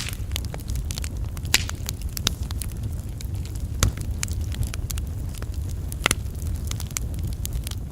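Wood logs burning on an open campfire, crackling and popping irregularly with sharp snaps over a steady low rumble.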